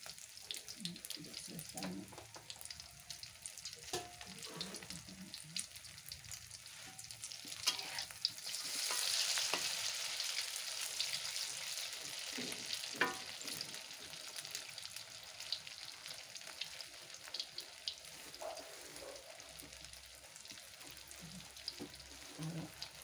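Tahu telur (tofu-and-egg batter) frying in hot oil in a wok, a steady sizzle that swells louder for a few seconds about a third of the way in. Scattered clinks of a metal spatula and ladle against the wok.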